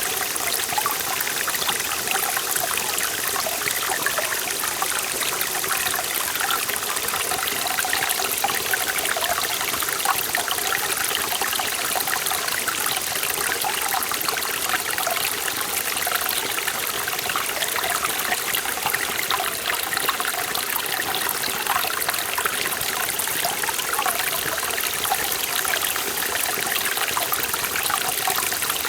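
Mountain stream in a forest valley, water running and splashing steadily over rocks with a constant bright, busy babble.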